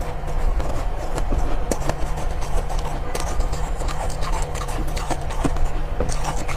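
Soft ice being bitten and chewed, a series of irregular sharp crunches, over background music and a steady low rumble.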